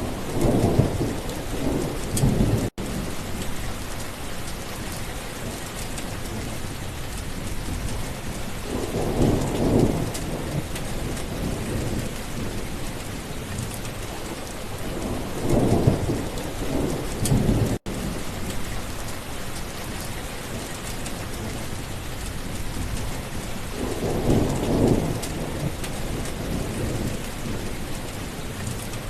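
Steady rain falling hard, with four low rolls of thunder swelling and fading about every seven to eight seconds. The sound cuts out for an instant twice, about three seconds in and again near the middle.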